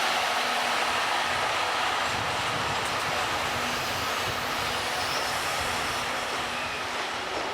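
A train running on the rails: a steady, even noise of wheels on track with no distinct clickety-clack beat, easing off slightly toward the end.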